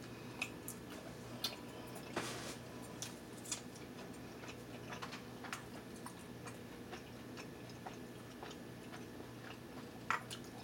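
Close-miked eating sounds from chewing a sauced chicken wing: soft chewing with scattered, irregular wet clicks and lip smacks, over a faint steady low hum.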